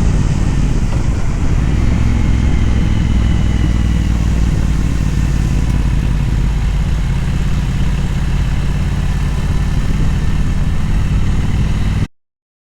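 Motorcycle engine running steadily on the move, with wind and road noise over it; the engine note shifts about halfway through, and the sound cuts off suddenly near the end.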